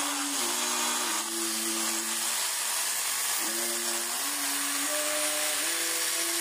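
Electric hand drill with a rewound stator running steadily at speed, a constant whirring hiss, over soft background music with slowly changing sustained notes.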